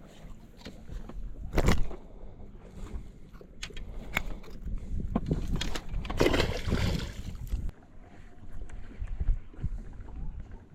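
Small fishing boat on the water: steady wind and water noise with scattered knocks and clicks of fishing gear and boat fittings being handled, and a brief rushing sound about six seconds in.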